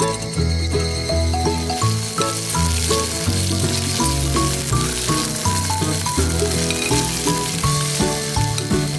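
Food sizzling and frying in a pan, a steady hiss, under background music with a plucked-sounding melody and stepping bass notes.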